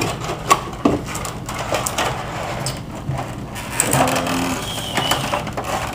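A cardboard box and its plastic packaging being handled and pulled apart: irregular crinkling, scraping and light knocks.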